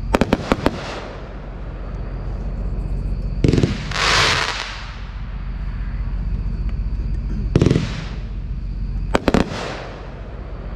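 A 30-shot, 500-gram consumer firework cake firing its shots. A quick run of sharp cracks comes right at the start, then a louder, longer noisy burst about four seconds in, another shot near eight seconds, and a pair of sharp cracks about nine seconds in.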